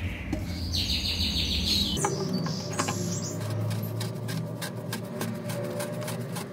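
Birds chirping in the background for the first two seconds, then a quick run of light clicks and knocks.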